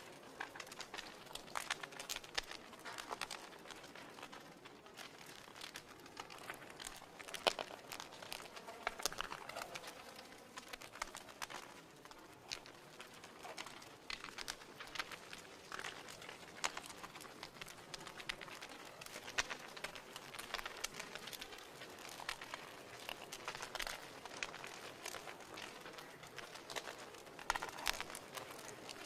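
Wood fire burning in a fireplace, crackling and popping steadily with many small irregular snaps over a soft hiss.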